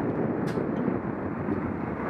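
Steady rush of wind buffeting an action camera's microphone while cycling, with a single short click about half a second in.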